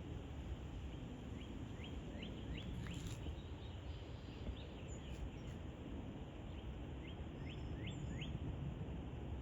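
A small bird calling in two runs of quick, rising chirps, over a steady low rumble of outdoor background noise.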